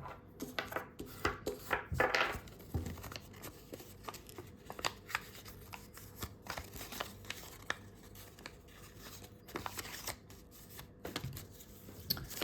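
A sheet of A4 printer paper being handled and folded: intermittent crinkling, rustling and short creasing clicks as folds are reversed and pressed flat, busiest in the first few seconds.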